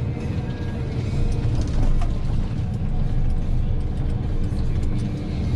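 Tree harvester's diesel engine running steadily under load, with scattered mechanical clicks and clanks from the working machine.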